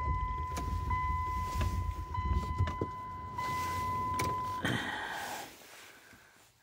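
A 2010 Dodge Journey's steady electronic chime tone sounds over a low rumble as the key is turned to start, after the gear lever was reseated in Park. Both stop about four and a half seconds in with a short rush of noise.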